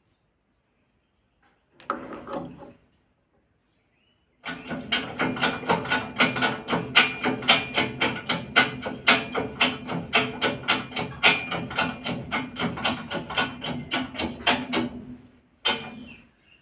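A mechanical tool working on a car strut assembly: a steady hum with rapid, even knocks, about four or five a second, lasting about ten seconds from a few seconds in. A brief clatter comes near the start and another short burst near the end.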